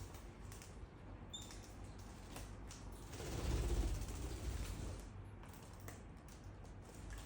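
Pet lovebirds in their enclosure: scattered light clicks and taps, one short high chirp about a second and a half in, and a louder rustle with a low rumble for a couple of seconds in the middle.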